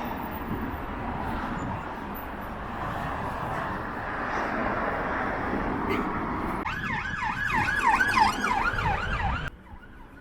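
Wind on the microphone and street noise, then about seven seconds in an emergency vehicle siren in fast yelp mode. The siren rises and falls about four times a second and cuts off suddenly near the end.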